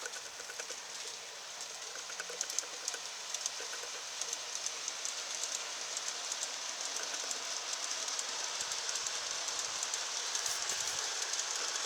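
G scale model train running along the track, its wheels clicking over the rail joints amid a steady rolling hiss that grows gradually louder.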